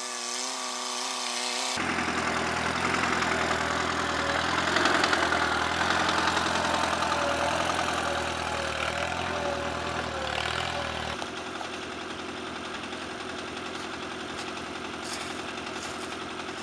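Allis-Chalmers farm tractor engine running steadily. Its sound changes abruptly about two seconds in and again around eleven seconds, and it is loudest in between.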